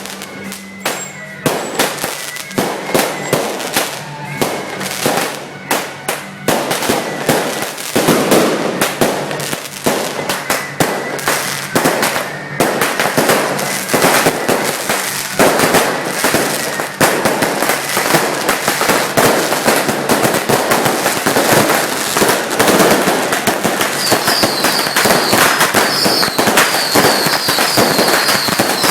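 Strings of firecrackers going off in a dense, rapid crackle of bangs, with short gaps at first, then becoming nearly continuous.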